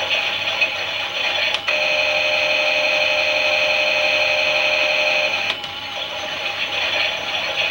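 Klein Miele toy washing machine running, its small battery motor whirring. About a second and a half in there is a click and the hum settles into a steadier, stronger tone, and about five and a half seconds in another click returns it to the rougher whir.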